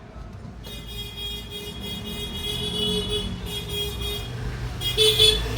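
Road traffic with vehicle horns sounding, a louder horn blast near the end.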